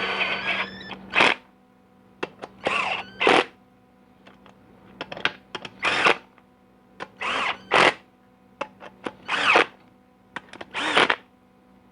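Cordless drill/driver running bolts down on a GM 4L80E transmission pump in a series of short trigger pulls. The motor spins up and back down in pitch each time, with light clicks of the socket and bolts in between.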